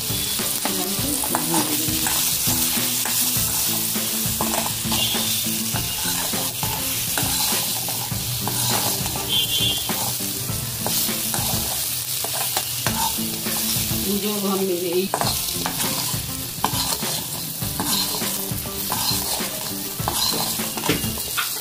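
Potato cubes sizzling as they fry in oil in a wok, stirred with a slotted steel spatula that scrapes and clicks against the pan again and again.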